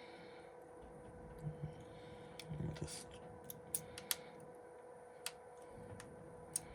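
Faint, scattered small clicks and taps from handling a phone motherboard and its flex-cable connectors, with a few soft low knocks, over a steady electrical hum.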